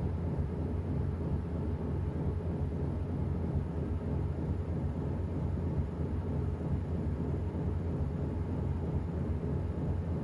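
Washing machine running with a steady low rumble.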